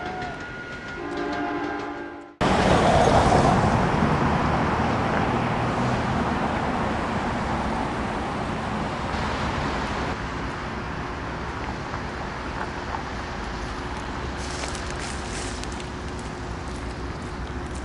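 A train's air horn sounds a chord for about two seconds, with a brief break near the start. It cuts off abruptly into the loud, steady rumble of an approaching freight train, which slowly eases, with a faint steady hum joining about halfway through.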